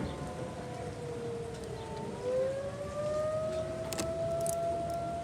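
Outdoor tornado warning siren sounding a long wail. Its pitch sags slowly, then rises about two seconds in and holds at the higher pitch.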